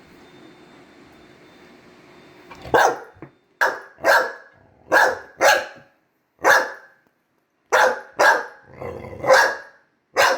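A pet dog barking in a run of about nine short, sharp barks, starting a couple of seconds in. The dog is upset: it is 'getting mad'.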